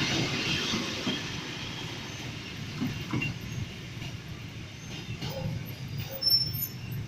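Departing passenger train rolling along the track, a steady low rumble of wheels on rail whose higher hiss fades out over the first few seconds as the train moves away.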